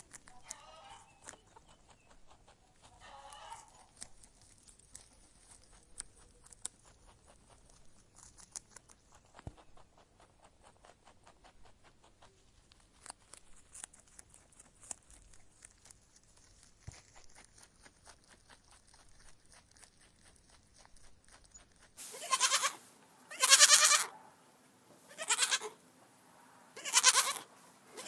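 Farm animals bleating: four loud, drawn-out bleats about a second and a half apart, starting abruptly near the end. Before them there are only two faint calls near the start and light scattered clicking.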